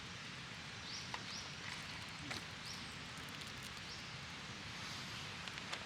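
A bird repeating a short rising chirp about six times, over a steady hiss, with a few sharp clicks mixed in.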